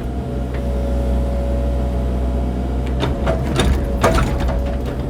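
Cat mini excavator's diesel engine running steadily with a steady whine over its low hum, and a few clunks about three and four seconds in as the machine works the dirt.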